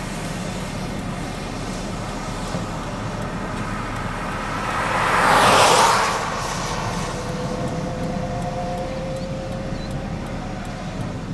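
Steady road and vehicle noise, with a vehicle passing close by about five seconds in, its rushing sound swelling and then fading.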